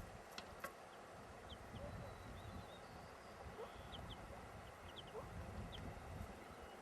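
Faint calls from a willow ptarmigan family: short high peeps scattered throughout, with a few soft lower notes and two clicks near the start.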